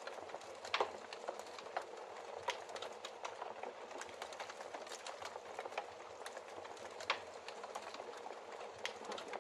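Wood fire of burning logs crackling steadily in a fireplace, with many small snaps and a few louder pops, the loudest about a second in and again near the end.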